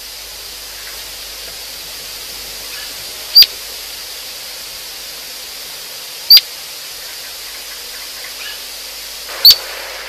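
A bird giving a single short, sharp chirp three times, about three seconds apart, over a steady hiss.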